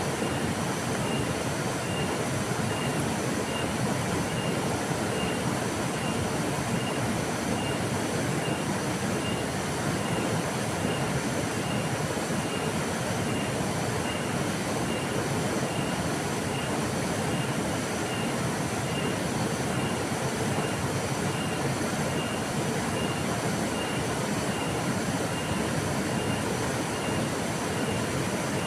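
Steady rush of a flowing river. A faint high chirp repeats evenly, about one and a half times a second.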